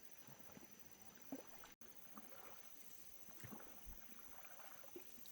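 Near silence: faint outdoor ambience with a few light, scattered rustles and ticks and a thin steady high tone, broken by a split-second dropout just under two seconds in.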